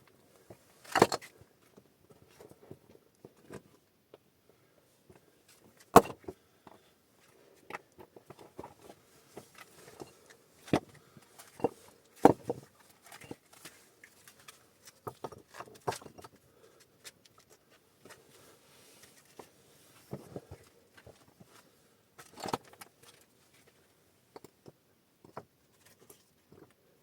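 Irregular knocks, clicks and scrapes of hands-on work. The sharpest come about a second in, at six seconds and around twelve seconds, with softer rustling and scraping between them.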